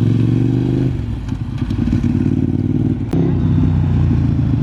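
Motorcycle engine running at a steady pitch. It eases off about a second in, there is a sharp click about three seconds in, and then the engine holds a steady note again.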